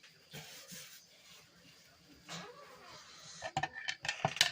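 Faint rustling and shuffling, then from about three and a half seconds in a rapid run of clinks and clatters of dishes and cutlery.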